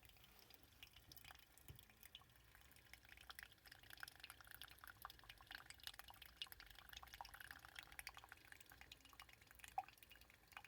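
Coffee dripping from an Autopress pressure coffee machine: faint, irregular small drips and ticks, busier in the middle, with one sharper click near the end.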